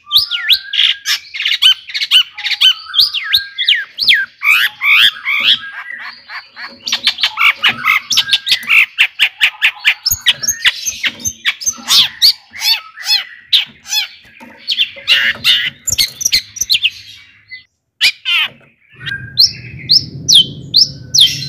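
Long-tailed shrike (cendet) singing a fast, varied string of sharp chirps, sweeping whistles and harsh squawks, the mimicry-filled song kept as a master song to rouse other shrikes. The song breaks off briefly about 18 seconds in, then resumes over a low hum.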